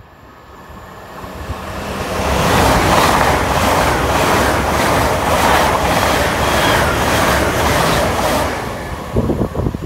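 LNER Azuma high-speed train passing through the station at speed without stopping. A rising rush of wheels on rail and rushing air swells to a loud, steady roar with a regular beat as the carriages go by, then fades near the end.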